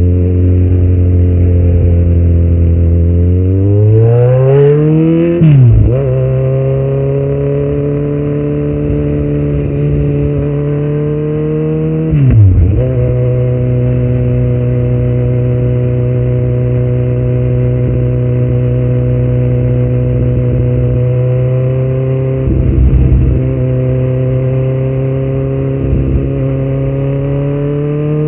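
2018 Kawasaki Z900's inline-four engine, breathing through Yoshimura muffler and Delkevic headers with no dB killer, pulling hard with its pitch rising. The revs dip sharply and briefly about five seconds in and again near twelve seconds, as with gear changes, and the engine then runs at nearly steady revs.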